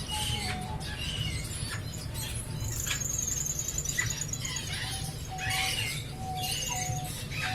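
Caged aviary birds chirping and calling over one another, with a rapid high trill of repeated notes about three seconds in and a few short whistled notes near the end.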